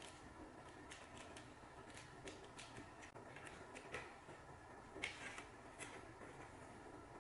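Faint, scattered small clicks and taps of objects being handled, over quiet room tone.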